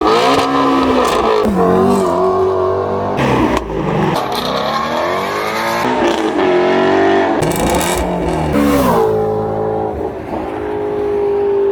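Car engine revving over and over, its pitch climbing and falling, with a few abrupt breaks along the way.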